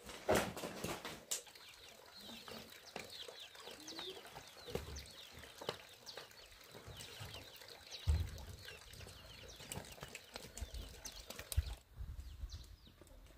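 Birds chirping in many short, falling calls, with scattered knocks and low thumps; the loudest knocks come just after the start and about eight and eleven and a half seconds in.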